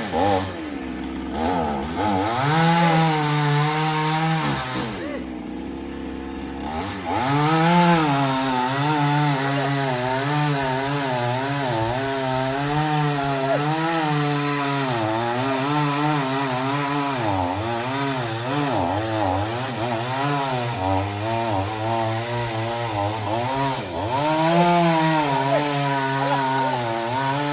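Chainsaw running at high revs and cutting into wood, its engine pitch wavering up and down under the load of the cut. About five seconds in it drops to a low idle for a couple of seconds, then revs up again and keeps cutting.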